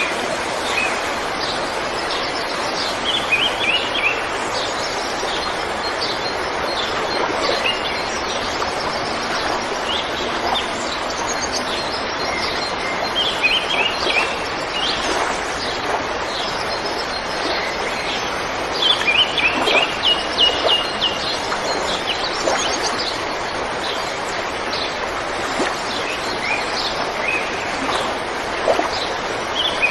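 River water flowing steadily, with small birds chirping over it in short quick series of repeated notes several times.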